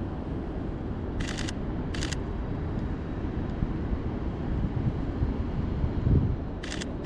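Camera shutter firing in three short bursts of rapid clicks, about a second in, at two seconds, and near the end, over a steady low rumble of street traffic and wind.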